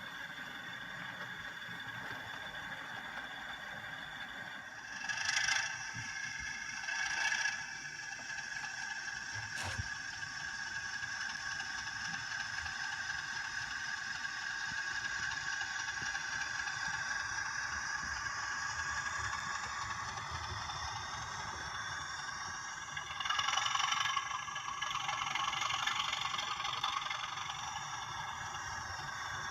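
OO gauge model locomotive running along the layout track: a steady whine with rattling wheels on the rails. There are louder swells about five and seven seconds in and again near the end, and a single click about ten seconds in. The pitch shifts slightly in the last third as the speed changes.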